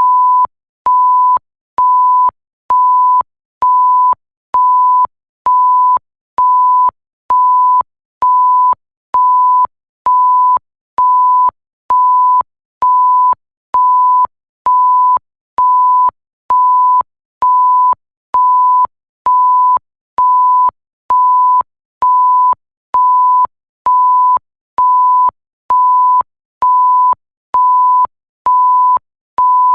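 Electronic bleep sound effect: a single steady pure tone pulsing on and off about once a second, each bleep a little over half a second long. It starts and stops abruptly with a faint click at each edge.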